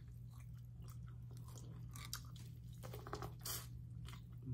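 A person biting and chewing corn on the cob close to the microphone: crisp, wet crunching clicks, loudest about three seconds in, over a steady low hum.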